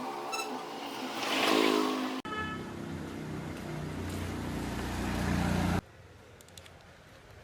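Workshop power-tool motors running in short clips: first a motor whose pitch climbs and falls, then, after a sudden cut, a lower steady motor that stops abruptly about six seconds in. A few light clicks follow in the quiet.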